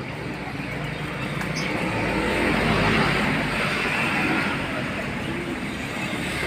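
A motor vehicle passing by, its noise swelling to loudest about three seconds in and then fading.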